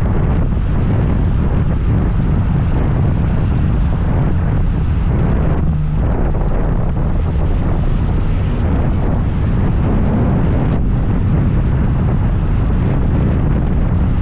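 Wind rushing over the microphone while riding a scooter, a steady loud rumble with the scooter's engine and road noise underneath.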